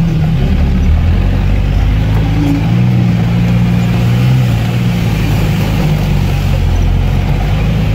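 A modified UAZ off-roader's V8 engine, heard from inside the cab, running steadily as it drives through water on a flooded dirt road, its note rising a little about three seconds in and easing back after. Under it, a steady hiss of rain and water thrown up by the tyres.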